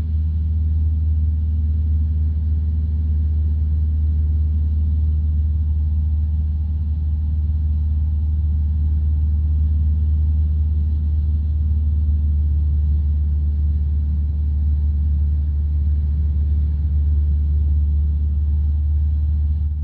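Cockpit drone of a Van's RV-12's Rotax 912 flat-four engine and propeller in steady cruise. It is a constant low hum, even in level throughout.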